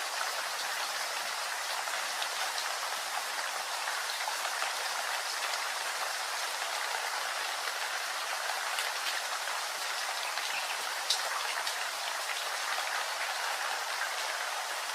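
Steady rain falling, an even hiss with scattered individual drops pattering, and one sharper drop hit about eleven seconds in.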